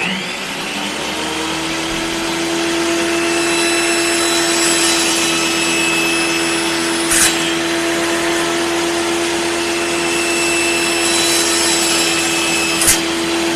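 Table saw motor running at a steady pitch with a high hiss, having just spun up at the start. Two sharp clicks cut through it, about halfway and near the end.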